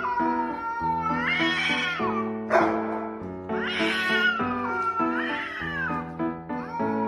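A cat meowing in about five long, drawn-out meows that bend up and down in pitch, with a brief harsh noise between the second and third, over background music.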